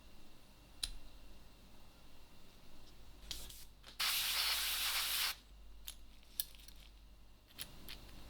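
A spray can gives one short, steady hiss lasting about a second and a half, a little before the middle, with a brief puff just before it. Around it come a few light, sharp clicks.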